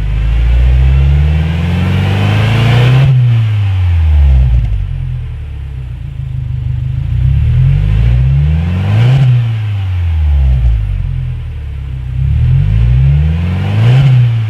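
Subaru Levorg VNH's turbocharged flat-four revved through a BLITZ Nur-Spec Custom Edition all-stainless rear-section exhaust. It is revved three times, the pitch climbing to a peak and dropping back to a low idle between revs.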